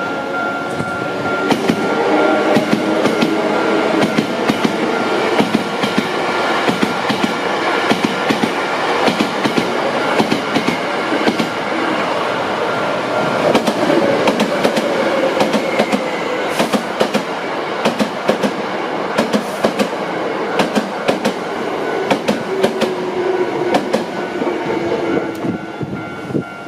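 A train running past close by, its wheels clacking over rail joints in a fast, uneven stream of clicks, with a whine that slides down and up in pitch. A steady high tone runs through the first half.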